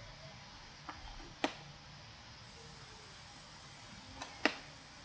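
Computer mouse clicking: a few single sharp clicks, the loudest about one and a half seconds in and another near the end, with fainter ones beside them, over a faint steady hiss.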